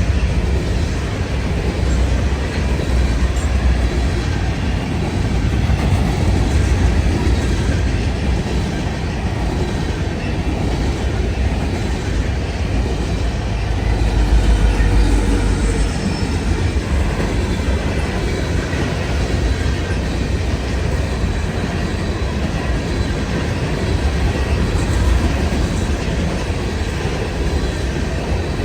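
Freight train of grain cars rolling past: a steady, continuous rumble of steel wheels on the rails.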